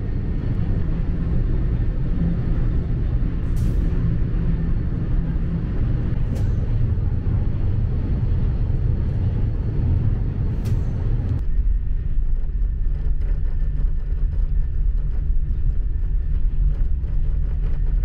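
Running noise of a TGV inOui high-speed train heard from inside the carriage: a steady low rumble with a hiss above it. About eleven and a half seconds in, the hiss drops away suddenly, leaving mostly the low rumble.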